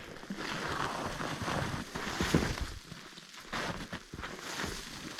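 Footsteps and rustling of someone walking over rough woodland ground, a run of uneven steps.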